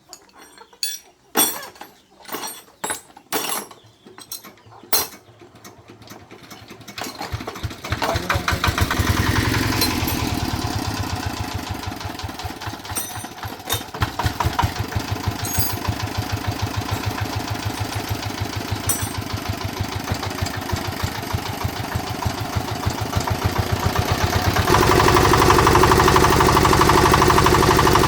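A few sharp metallic clinks and knocks, then about seven seconds in the repaired D8 diesel engine starts and runs with a steady beat of firing strokes. Near the end it speeds up and runs louder.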